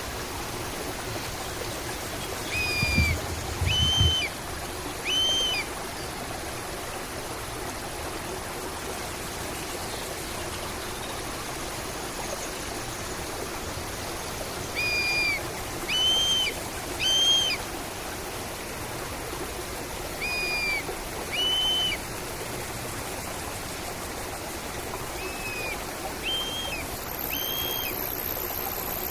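Running water from a stream, steady throughout, with a bird repeating a short clear call in bouts of two or three notes about a second apart. A thin, very high steady tone starts near the end.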